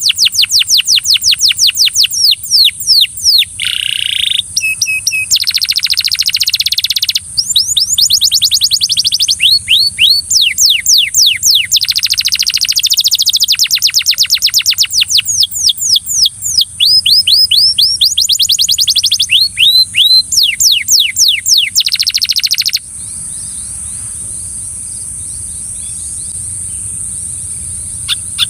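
Belgian canary singing loud, fast rolls of repeated down-sweeping notes and quick trills. The song breaks off about 23 seconds in, leaving a steady high hiss, and starts again right at the end.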